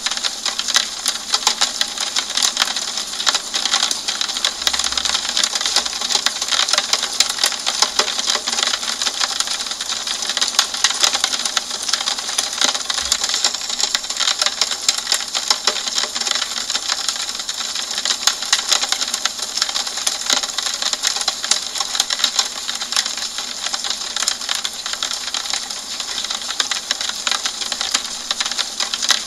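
Steady rain hitting a window pane: a dense, even stream of small drop ticks over a hiss, mostly high-pitched with little low end.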